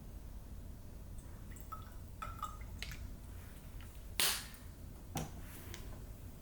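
Household objects being handled: a few light clicks and short clinks, then a sharp knock about four seconds in and a smaller one a second later, over a low steady hum.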